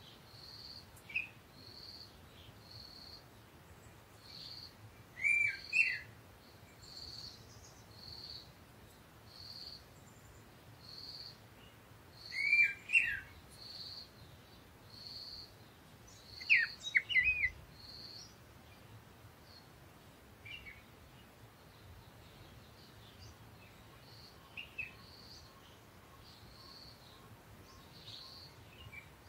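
Birds chirping. One repeats a short, high note about every 0.7 seconds throughout, while louder quick runs of two or three falling chirps break in three times, with fainter chirps near the end.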